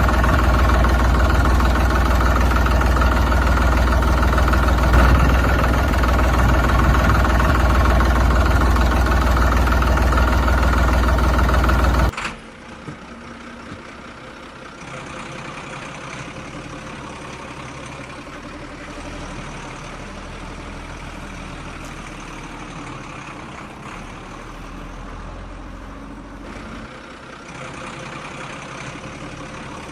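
Steady engine running sound, loud, that cuts off abruptly about twelve seconds in, giving way to a much quieter steady hum.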